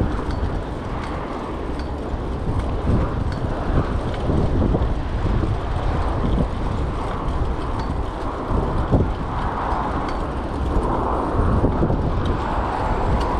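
Wind buffeting the microphone of a moving bicycle, a steady low rumble with street traffic noise behind it.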